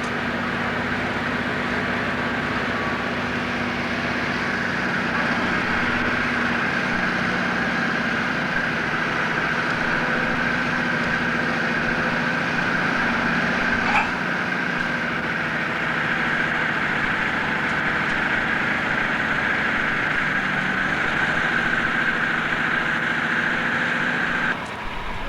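An engine idling steadily, with a steady high whine over it. There is a single short click about fourteen seconds in, and the sound cuts off suddenly near the end.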